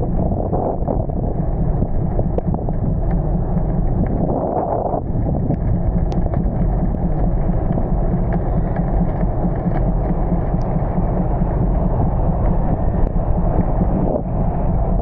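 Wind buffeting the microphone in heavy rain: a steady low rumble with faint scattered ticks.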